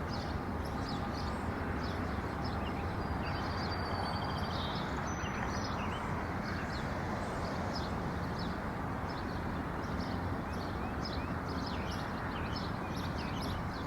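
Many small birds chirping in quick, short calls over a steady low rumble of background noise, with a brief thin whistle about four seconds in.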